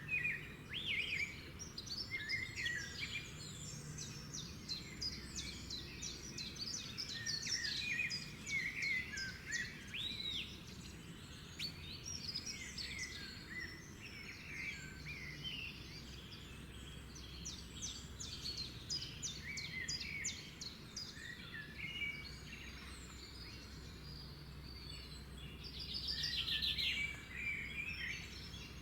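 Several songbirds singing and chirping together in a dawn-chorus-like mix of short whistles, trills and rapid chirps, over a faint low background hum; a burst of fast repeated notes rises near the end.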